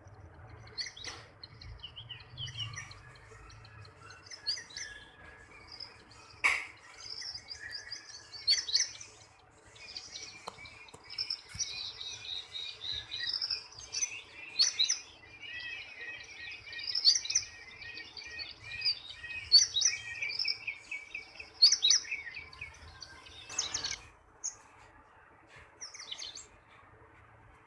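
Birds chirping and twittering, many short calls and trills overlapping, with a few sharp clicks among them.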